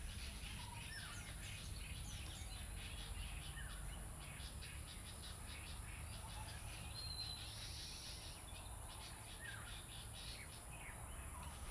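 Many small birds chirping and tweeting in quick, short calls, over a steady low hum and a constant thin high-pitched whine.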